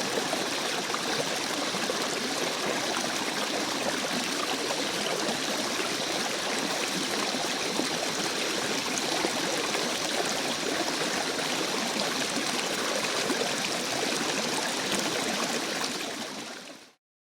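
Stream water flowing and trickling, a steady rushing that fades out quickly near the end.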